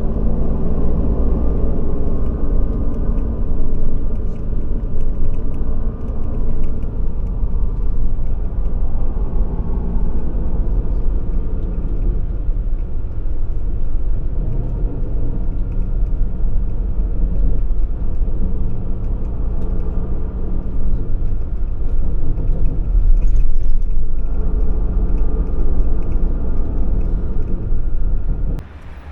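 Coach bus on the road, heard from inside the cabin: a steady engine drone and road rumble, the engine note shifting in pitch now and then. It cuts off abruptly near the end.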